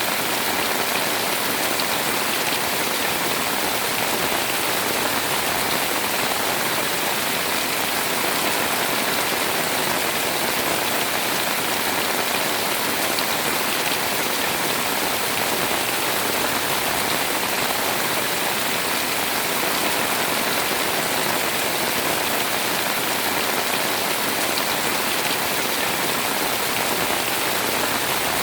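Heavy rain pouring steadily, a dense even hiss of falling water with no letup.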